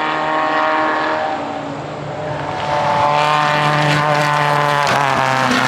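Off-road race car engine running hard as it approaches on a gravel forest course, growing louder about three seconds in, with a brief dip in the engine note near the end.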